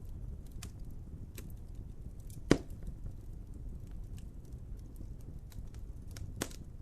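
Wood fire burning with a steady low rumble and scattered crackles, with one loud sharp pop about two and a half seconds in and a smaller one near the end.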